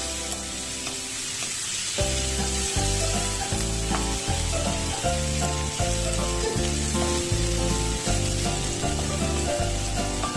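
Chopped onion, garlic, tomato and ginger sizzling as they sauté in hot oil in a nonstick pan, with a wooden spatula stirring through them. Background music with a steady beat plays under the sizzle, coming in about two seconds in.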